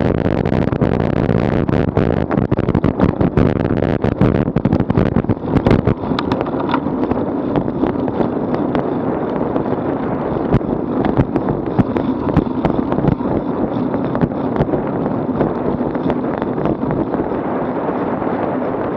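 Wind buffeting an action camera's microphone on a moving bicycle, over a steady rumble of tyres on the road, with frequent sharp clicks and knocks from the bike and mount rattling over the road surface, thickest in the first half.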